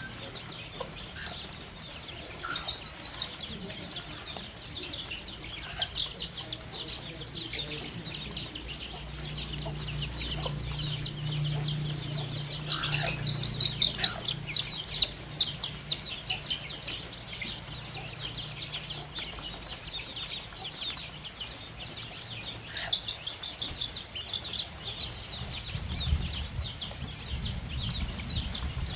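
Baby chicks peeping: many short, high-pitched peeps overlapping without pause, busiest about halfway through.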